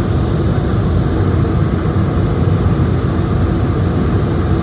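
Steady cabin noise of an Airbus A220-100 airliner heard from inside the passenger cabin: its Pratt & Whitney geared turbofans and the airflow make an even, deep rumble with no change.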